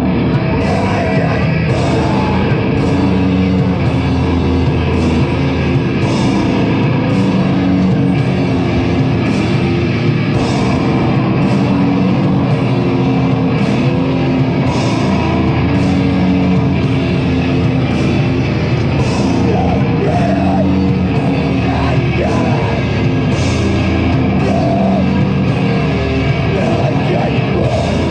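A metal band playing live: distorted guitars and bass over drums, with regular cymbal crashes, loud and dense throughout.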